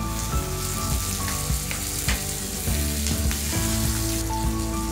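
Onions, green chilli and freshly added tomato sizzling in hot oil in a metal kadhai. A perforated metal spatula clicks and scrapes against the pan several times as the vegetables are stirred.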